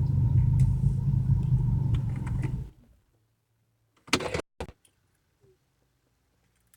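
BMW 335i's turbocharged straight-six running rough while misfiring on cylinders 4 to 6. It cuts off abruptly about two and a half seconds in. A few short clicks and knocks follow in near silence.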